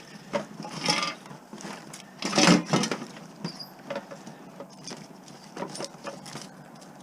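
Scrap wiring and metal parts being handled and pulled at: irregular rustling, clicks and light clinks, with a louder rattle about two and a half seconds in.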